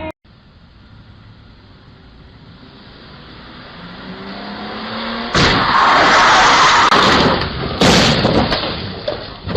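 A car's engine and road noise grow steadily louder, then about five seconds in comes a sudden loud crash, followed by about two seconds of harsh scraping noise. A second loud crash follows about two and a half seconds later.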